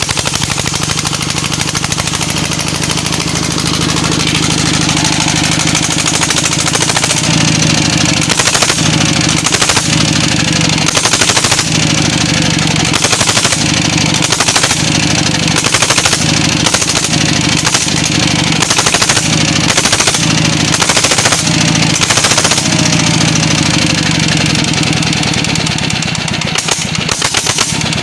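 Single-cylinder diesel engine of a walking tractor running with a rapid, even popping exhaust beat. From about a quarter of the way in, its note surges and drops roughly once a second for a long stretch, then settles back to a steady run.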